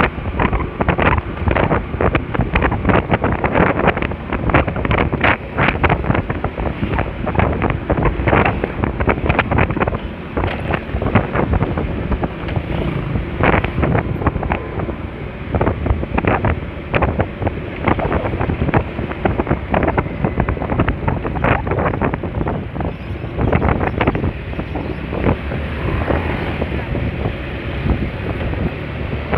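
Wind buffeting the microphone of a rider on a moving Honda Spacy scooter, a constant rough rush broken by many quick gusts and pops, with the scooter's engine and road noise underneath.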